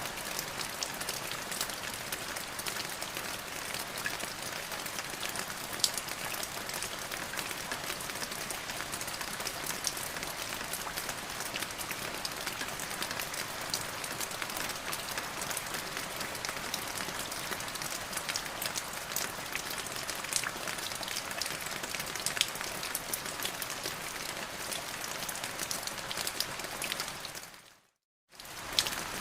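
Steady rain falling, a dense even hiss dotted with sharp clicks of single drops landing. Near the end it fades briefly to silence, then starts again suddenly.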